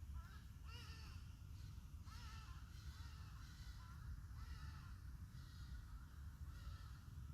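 Faint, repeated bird calls, short and arched in pitch, about one a second, over a low steady rumble.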